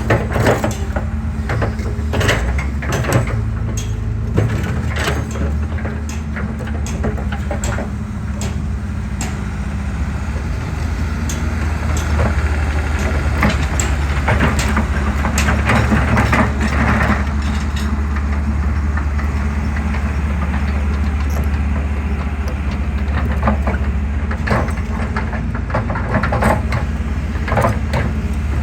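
Excavator engine running steadily under load, with irregular sharp knocks and cracks of concrete being crushed and breaking apart.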